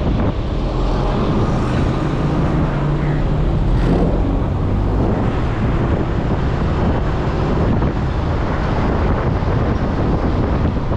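Wind buffeting the microphone over the steady drone of a running vehicle, with an engine hum audible for the first few seconds and a brief sharp sound about four seconds in.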